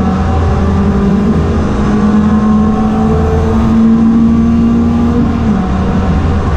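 Ford Fiesta race car engine pulling hard, its pitch climbing slowly through a gear and then dropping about five and a half seconds in, over a steady low drone.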